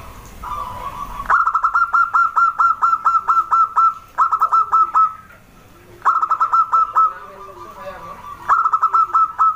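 Zebra dove (perkutut) calling in four runs of rapid, short notes, about five or six a second, the first run the longest. Between the runs come softer, lower arched coos.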